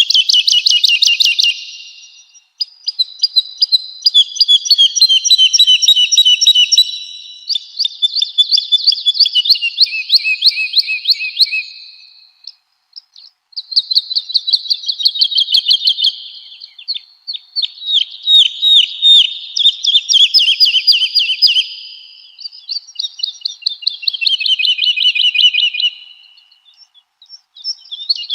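Woodlark singing: phrase after phrase of fast, rapidly repeated high notes, many sliding down in pitch toward the end, with short pauses between phrases.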